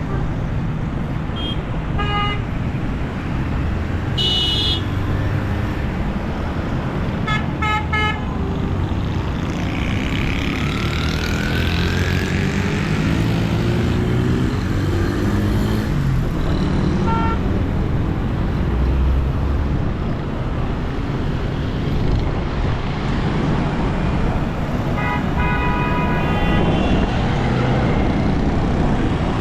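Busy city road traffic: engines running and tyres hissing on wet road, with car horns honking several times, short toots early on and a longer honk near the end, and one vehicle speeding up about eleven seconds in.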